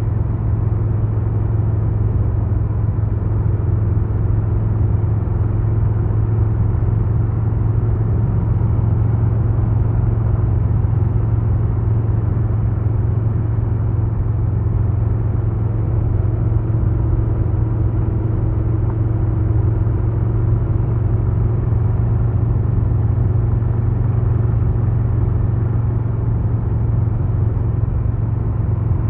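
2022 Harley-Davidson Low Rider S's Milwaukee-Eight 117 V-twin running steadily under way, holding a near-constant speed with only slight shifts in pitch.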